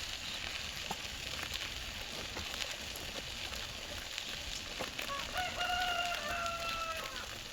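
A rooster crows once, starting about five seconds in: one long, held call that falls slightly in pitch. Under it is a steady hiss with scattered light clicks.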